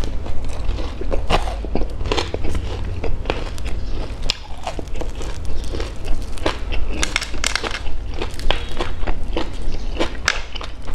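Close-up chewing and crunching of a fried sesame rice ball (bánh cam), its crisp sugar-and-sesame crust crackling as it is chewed and torn apart by hand. Many short sharp crackles over a steady low hum.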